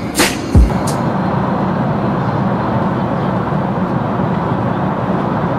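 Steady jet airliner cabin noise in flight: an even rush of engine and airflow with a low hum. A hip-hop track with deep, falling bass hits plays over it and ends about a second in.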